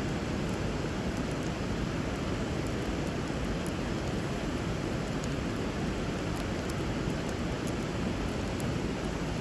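Steady rushing of a flowing river, with faint scattered crackles from a wood fire.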